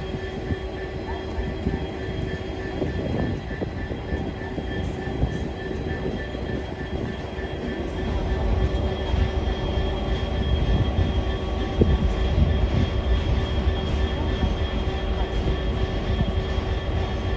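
A train running past: a low rumble that grows louder about eight seconds in, with steady whining tones held above it.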